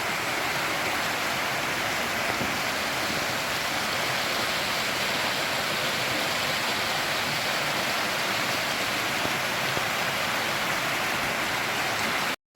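Steady, even rush of falling water, cut off abruptly near the end.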